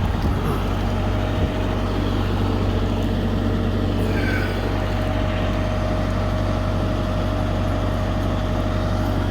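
LS U5030 tractor's diesel engine running steadily while it powers the 3100 series backhoe digging out a stump, with a steady high whine that grows clearer about halfway through.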